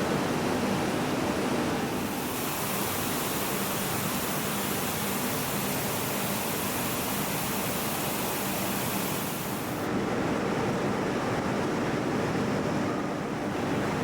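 Steady factory-floor machinery noise: an even hiss with a faint low hum, its character changing abruptly about 2 s and 10 s in.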